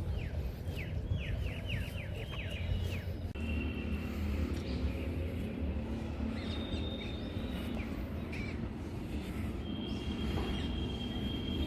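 Birds calling outdoors: a quick run of falling chirps, then several high steady whistled notes, the last held about two seconds near the end, over a steady low background rumble.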